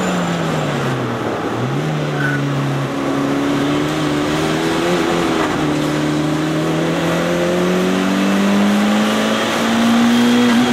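Mitsubishi Lancer Evolution III's turbocharged 2.0-litre four-cylinder engine heard from inside the cabin on track. The engine note falls as the car slows, then jumps up about a second and a half in with a downshift. It climbs steadily under acceleration out of the corner and begins to ease off near the end.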